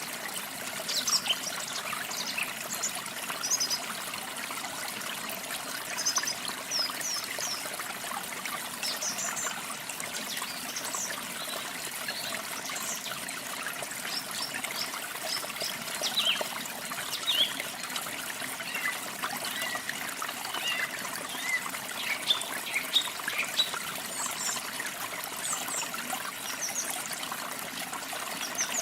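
Water trickling steadily, with short, high bird chirps coming and going over it.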